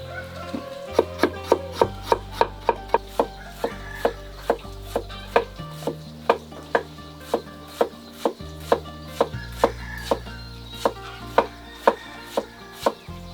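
Rhythmic chopping: a blade strikes a wooden board or block again and again, a few times a second, over background music.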